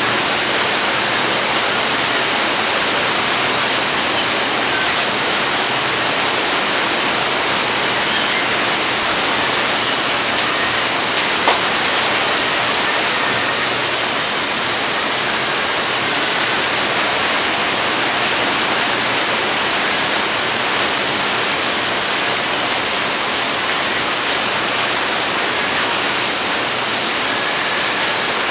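Heavy rain falling steadily, an even loud hiss, with a single sharp tick about eleven seconds in.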